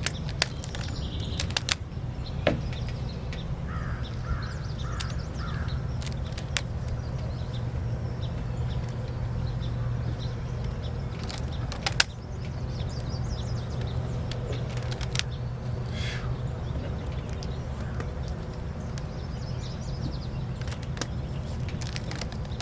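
Occasional sharp snaps of rubber bands being stretched onto a watermelon, over a steady low rumble. A bird calls four times in quick succession about four seconds in.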